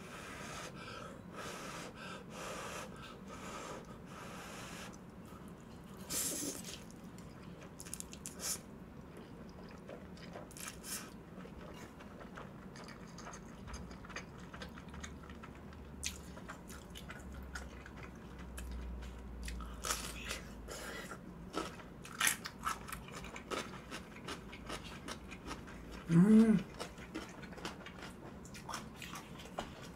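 Close-miked chewing of sticky Chapagetti black-bean noodles, with scattered wet mouth smacks and clicks and a short hum about 26 seconds in.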